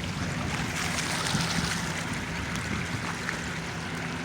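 Floodwater rushing steadily along a flooded street, an even running-water noise with a low rumble underneath.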